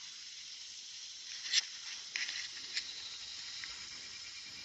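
Quiet outdoor ambience: a faint steady high hiss with a few soft clicks in the middle.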